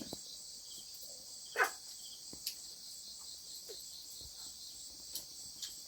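Steady high-pitched chorus of crickets and other insects, with a few faint clicks and one short sliding sound about one and a half seconds in.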